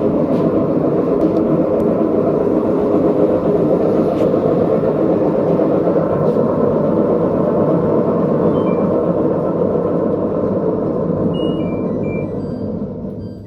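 Front-loading washing machine drum spinning with a loud, steady rumble, the noise of worn drum bearings. It winds down over the last couple of seconds, with a few short electronic beeps near the end.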